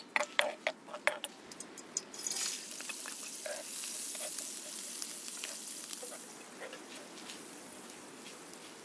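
A few sharp clicks and knocks of utensils. About two seconds in, food starts sizzling in hot oil in a pan, a steady hiss that slowly fades.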